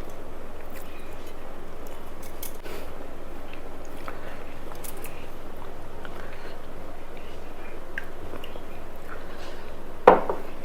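Close-up eating sounds: chewing and small mouth clicks of someone eating a rice meal, over a steady background hiss.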